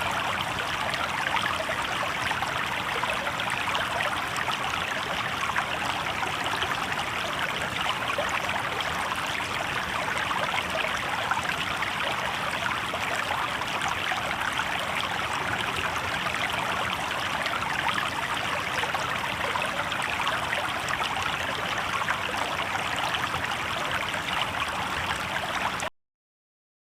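Shallow river water babbling steadily over rocks, then cutting off abruptly to silence near the end.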